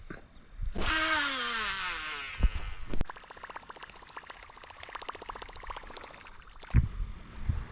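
A fishing rod cast: the reel whirs with a whine that falls in pitch for about a second and a half as the line pays out. A couple of sharp knocks follow, then the rapid, even clicking of the reel being cranked in.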